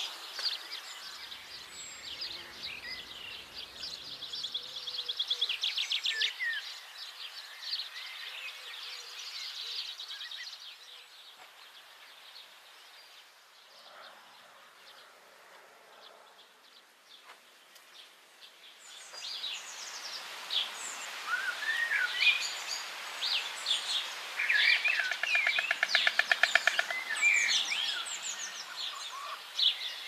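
Birds calling: many short high chirps, with a fast rattling run a few seconds in and another near the end. The calling dies down for several seconds in the middle.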